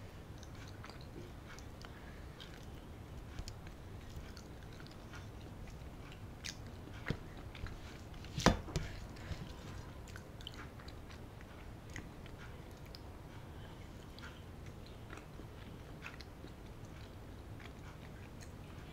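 Close-miked mouth sounds of someone eating with her hand: chewing and wet little clicks and smacks at irregular moments, with one sharp, much louder click about halfway through.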